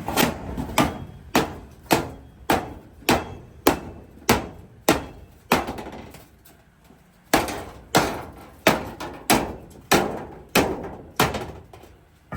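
Hammer blows on sheet steel in a steady rhythm of a little under two a second, each hit ringing briefly. The blows pause for about two seconds midway, then carry on.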